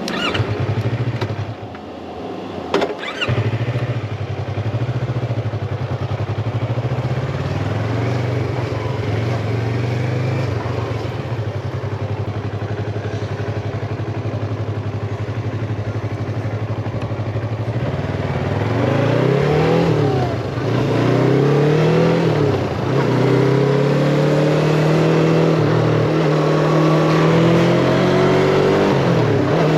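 Yamaha MT-25 motorcycle's 250 cc parallel-twin engine running at a steady speed, with a sharp knock a few seconds in. About two-thirds of the way through it revs up and drops back several times as the bike accelerates up through the gears, then holds a steady, higher pitch.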